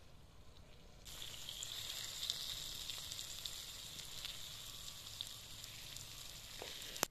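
Eggs and chopped tomatoes frying in oil in a wide pan over a wood fire: a steady sizzle with scattered small pops, which starts about a second in. A single sharp click comes near the end.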